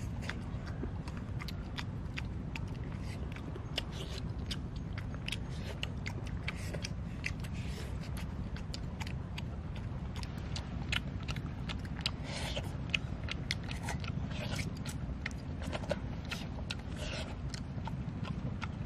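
Close-up eating sounds of grilled fish eaten by hand: wet chewing and lip-smacking, many small irregular mouth clicks, over a steady low hum.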